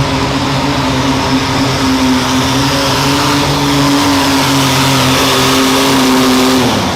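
Garden pulling tractor's engine running hard at a steady high pitch under load, then its note drops and quietens near the end as the throttle comes off.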